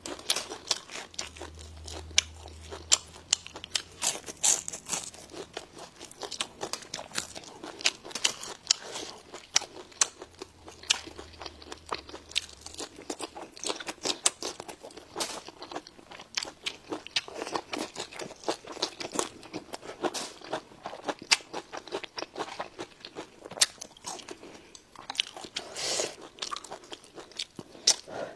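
Close-miked chewing and crunching of crispy fried fish, with irregular crisp crunches as the bones and skin are bitten through.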